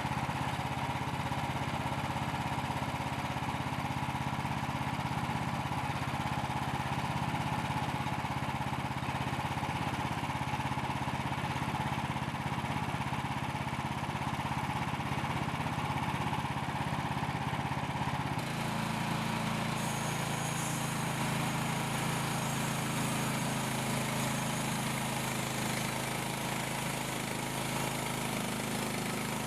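Small petrol engine of a Frontier portable bandsaw mill running steadily while a log is milled. About two-thirds of the way through, the sound changes abruptly, with a different low engine note and more hiss above it.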